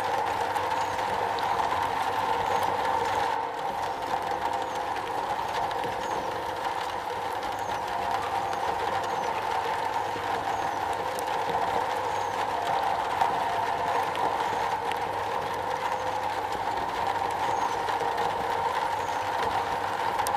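Steady rain falling on a metal roof.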